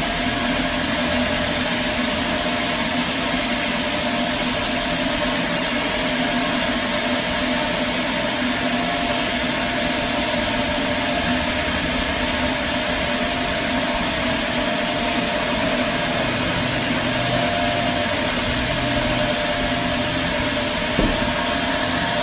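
Sawmill machinery running with a steady drone and hum, its pitch unchanging, with one brief click near the end.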